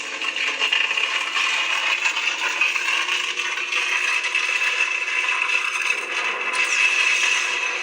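Sustained crackling, rasping sound effect played through a lightsaber's speaker from its Kyberphonic 'Ben' sound font, covering the blade's hum, then fading out just before the end.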